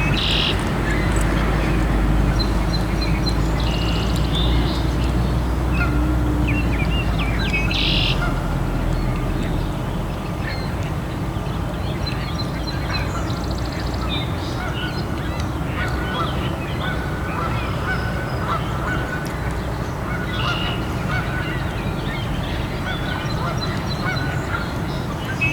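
Waterfowl calling in short, scattered calls over a steady rushing background, with a low rumble through the first half that fades.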